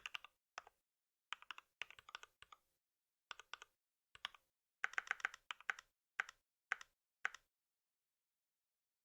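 Computer keyboard typing in short bursts of keystrokes with brief pauses between them; the typing stops about seven and a half seconds in.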